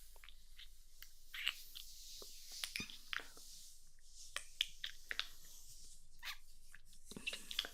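ASMR kissing sounds close to the microphone: soft, wet lip smacks and mouth clicks at irregular intervals, with a faint hiss between them.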